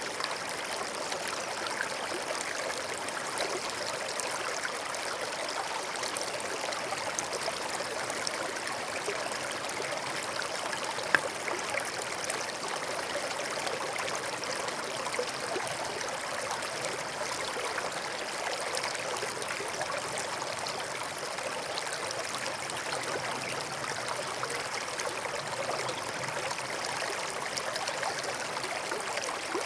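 A small forest stream running steadily, an even babble of flowing water. A single sharp click stands out about eleven seconds in.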